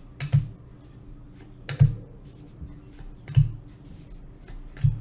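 Trading cards being flicked or set down one at a time on a table: four sharp taps with a low thump, about a second and a half apart, over a faint steady hum.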